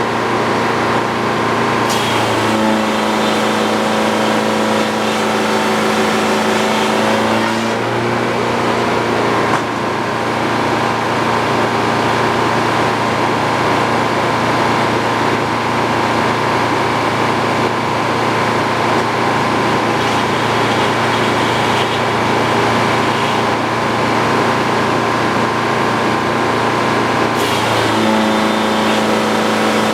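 Sawmill running steadily under power while sawing a beam into boards, with the machine's note shifting about two seconds in, again around eight to ten seconds, and near the end.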